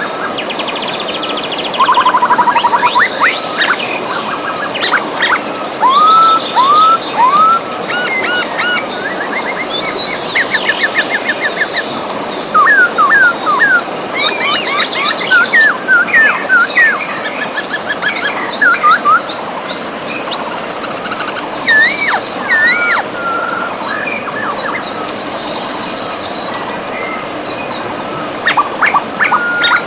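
Several birds singing and calling over the steady rush of a river, with many quick up-and-down whistles and fast trills.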